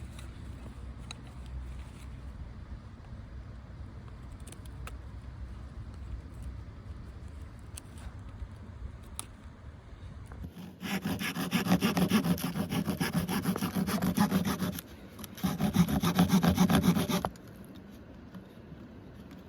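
A hand saw cutting through wood in two spells, one of about four seconds and then, after a short pause, one of about two seconds, starting about ten seconds in. Before that there is only a low rumble with a few light clicks.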